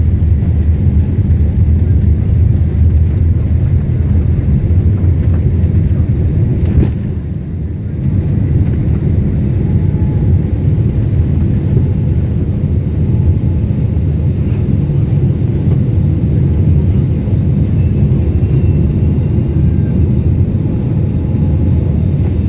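Low, steady rumble of airplane engines at take-off power, with a brief click and a short drop in level about seven seconds in.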